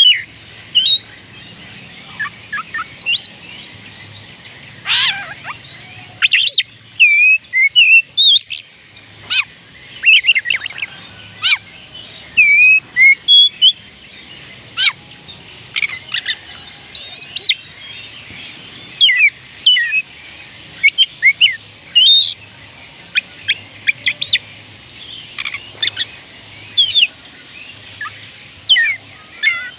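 Oriental magpie robin singing: a varied run of short, clear whistled notes that slide sharply up and down, given in quick phrases broken by brief pauses.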